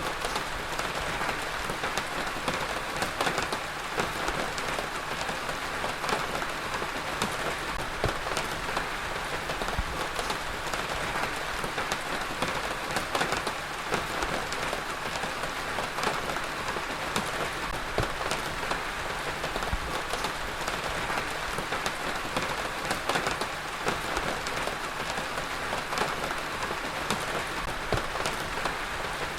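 Heavy rain falling steadily on a surface, a dense even hiss with many individual drop impacts ticking through it.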